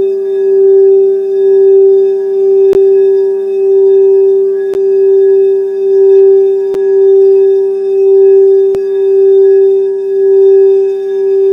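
Singing bowl ringing with one steady, sustained tone and its overtones, the sound swelling and fading about once a second. A faint tick comes about every two seconds.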